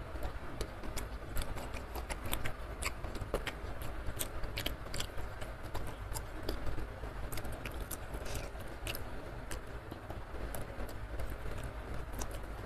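Close-miked eating sounds: wet chewing and lip smacks in many small, irregular clicks, with fingers working rice on the tray, over a steady low rumble.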